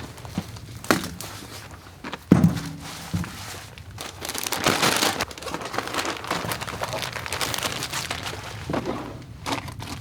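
Handling noises: scattered knocks, one heavy thunk about two seconds in, then several seconds of crinkling and rustling.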